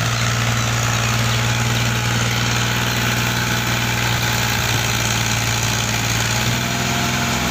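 Fiat tractor's diesel engine running steadily at a constant low speed, a deep even drone.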